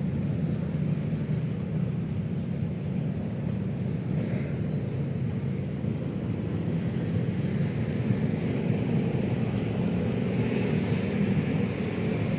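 Steady low hum of city road traffic.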